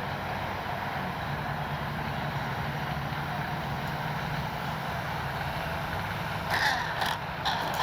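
Electric RC plane's brushless outrunner motor and propeller humming steadily at low throttle, with wind noise over it. A few short knocks and clicks near the end.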